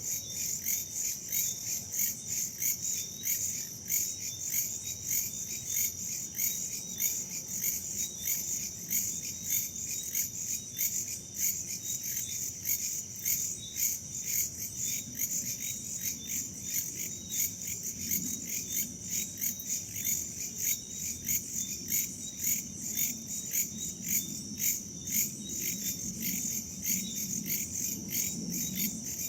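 Night chorus of crickets and other insects, a dense steady chirping that pulses evenly. A soft low wind rumble underneath grows a little stronger about two-thirds of the way through.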